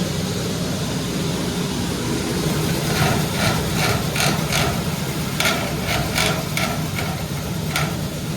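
Duct-cleaning machine running steadily with a low hum. About three seconds in, a string of irregular sharp knocks starts against the sheet-metal ductwork.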